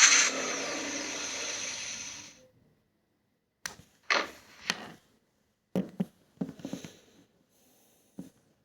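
Recorded car engine-starting sound effect, played as a notification, running loud and dense until it fades out about two and a half seconds in. After a gap come a series of short knocks and clicks, about eight in all.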